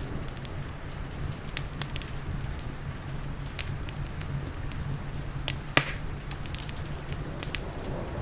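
Crackling wood fire: irregular sharp pops and snaps, one louder crack about six seconds in, over a steady rushing bed of rain.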